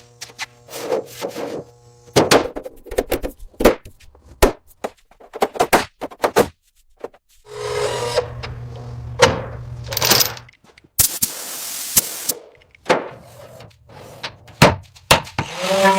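Workshop work sounds: a run of irregular knocks, taps and clicks from hand tools. A low steady hum comes in for two stretches, and a short hiss sounds a little past the middle.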